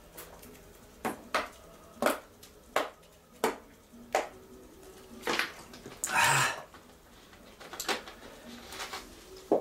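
A series of sharp knocks and clatters, about a dozen spread unevenly, with one longer, louder rustling scrape about six seconds in: objects being handled and set down on a hard surface.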